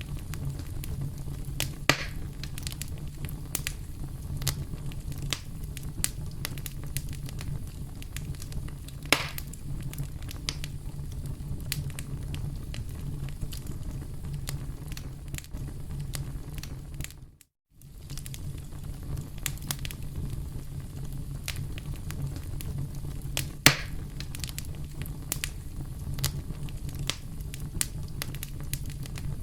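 Campfire burning with a steady low rumble and irregular crackles and pops, a few noticeably louder than the rest. The sound cuts out to silence for a split second a little past halfway, then carries on.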